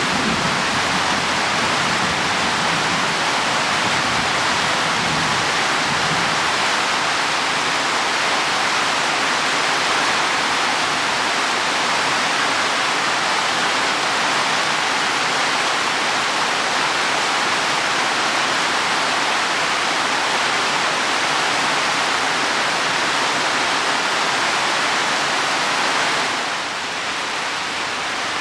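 Heavy rain falling steadily on leaves and soil, a dense even hiss of drops. Near the end it drops a little in level.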